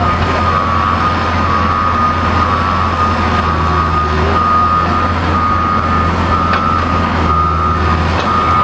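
Mini excavator's diesel engine running steadily as it works, with a steady high-pitched tone over it.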